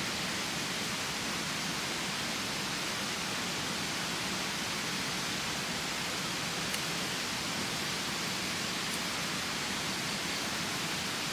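Steady hiss of heavy rain or rushing water, even throughout, with a few faint ticks like drops landing.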